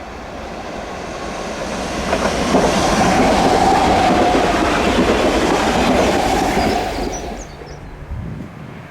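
Train passing through a station: the rumble and wheel noise swell over the first few seconds, hold loud with a steady whine, then fade away near the end.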